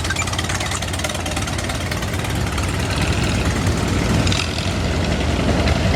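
Farm tractor engines running steadily as tractors pull in, a low rumble that grows slightly louder toward the end.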